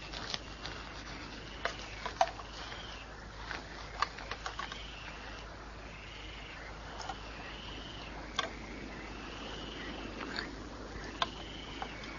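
A bird calling over and over: a short rising-and-levelling whistle repeated about every second and a half. Scattered sharp clicks sound over a faint steady hiss.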